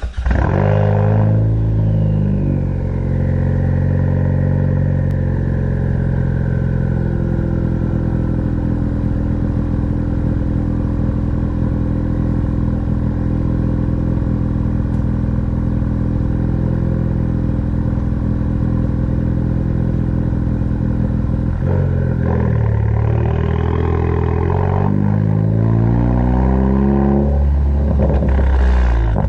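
2018 Ford Focus ST's turbocharged 2.0-litre four-cylinder, muffler and resonator deleted, revved briefly at the start, then idling steadily before being revved several times near the end. After the first rev a high turbo whistle glides slowly down in pitch.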